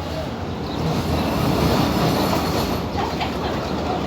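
Passenger train running along the track, heard from inside the carriage: a steady rumble of wheels on rail that grows louder about a second in, with a few clacks near the end.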